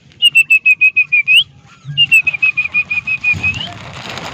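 Young puppy squealing close by in two quick series of high-pitched squeaks, about ten a second, each series rising in pitch at its end.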